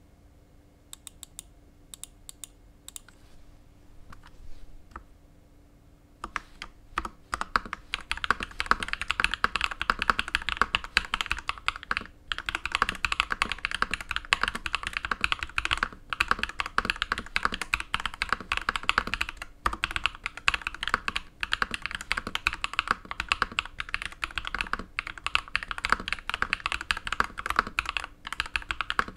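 Typing on a DA Meca 6 Plus mechanical keyboard with lubed KTT Pink Peach linear switches and a foam-dampened case. A few scattered keystrokes come first, then fast continuous typing starts about six seconds in, broken by a few brief pauses.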